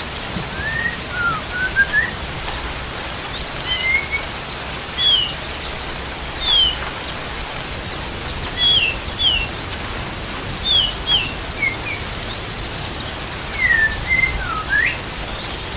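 Birds chirping, a scattered series of short whistled notes, many sliding down or up in pitch, in small groups every second or two, over a steady hiss like rain or running water.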